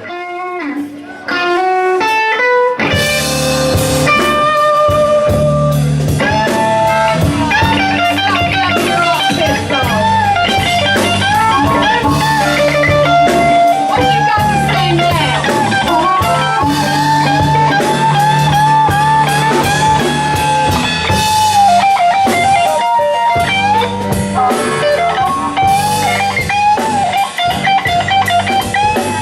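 Live blues band playing an instrumental introduction: lead guitar opens alone with a rising run of notes, then bass and drums come in about three seconds in and the guitar plays bent, sustained lead lines over a steady groove.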